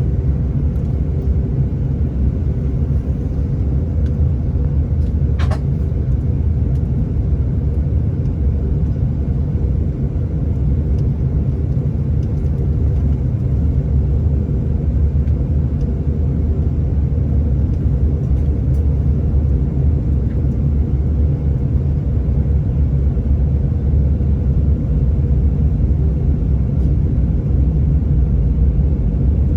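Airliner cabin noise during the descent: a steady, deep rumble of engines and airflow with a constant hum above it. A brief click about five and a half seconds in.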